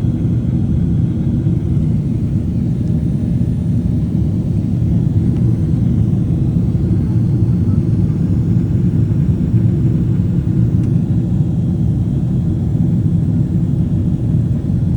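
Boeing 767-400ER cabin noise during the climb: a steady low drone of the jet engines and airflow, with no change in level.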